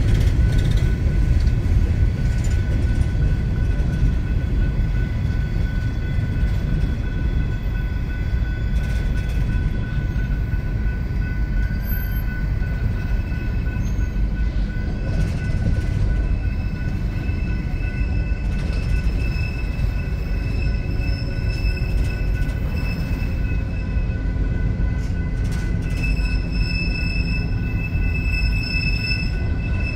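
Empty coal cars of a slow-moving freight train rolling past: a continuous low rumble of steel wheels on rail, with thin, steady high-pitched wheel squeal over it that grows stronger in the second half.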